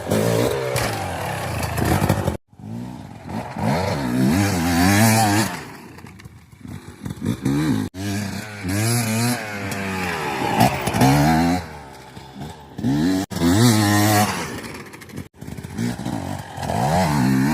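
KTM 250 EXC TBI single-cylinder two-stroke enduro engine revving up and down over and over as the bike is ridden through tight turns, its pitch climbing and dropping every second or two, with a few brief gaps.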